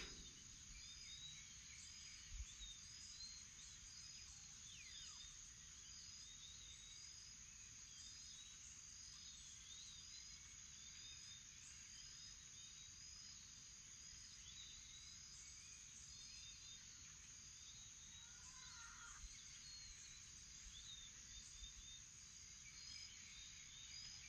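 Faint morning chorus of birds, with many short repeated chirps and a few falling whistles, over a steady high insect drone.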